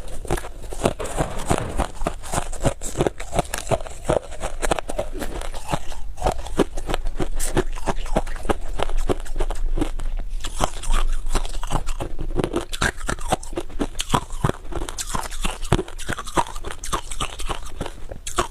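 Freezer frost being bitten and chewed close to the microphone: a dense, continuous run of crunches.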